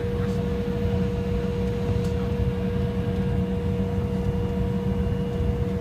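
Steady jet airliner cabin noise before takeoff: a low rumble with a constant hum held at one pitch, from the engines and cabin air system.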